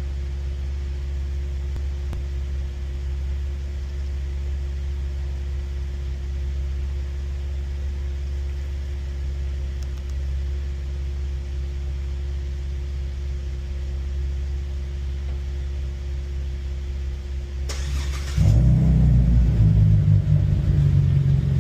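Steady low engine idle. About 18 seconds in comes a short burst of cranking, and a 2016 Cadillac ATS-V's 3.6-litre twin-turbo V6, fitted with a ZZP cold air intake and tune, starts and runs at a markedly louder idle.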